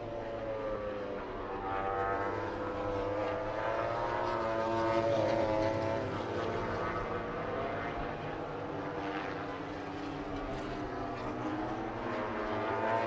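Racing motorcycle engines running, their pitch rising and falling slowly over a few seconds above a steady low hum.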